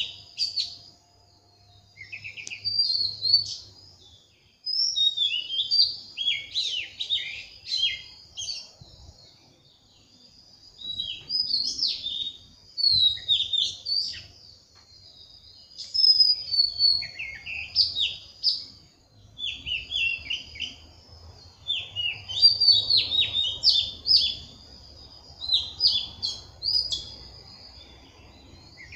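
Birds chirping in short bursts of quick, gliding notes, one phrase after another.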